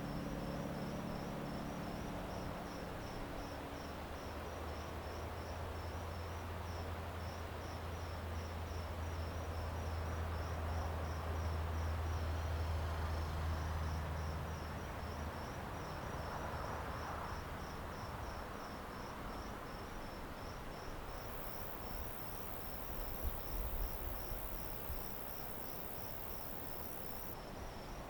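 Crickets chirping in steady, evenly spaced pulses over an outdoor background. A low hum swells during the first half and fades, and a high hiss joins for several seconds near the end.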